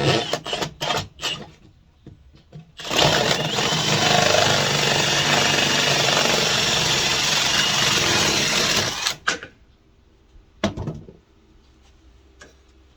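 A few knocks, then a drill spinning an adjustable hole cutter set to 6 inches through a sheet of drywall. It cuts steadily for about six seconds and stops suddenly.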